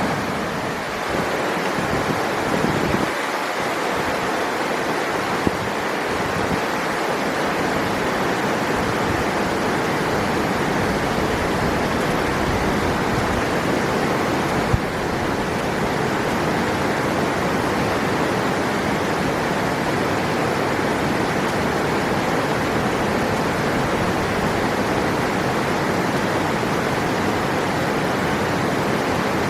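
River water rushing steadily, a constant even wash of noise, with two brief clicks, one about five seconds in and one near the middle.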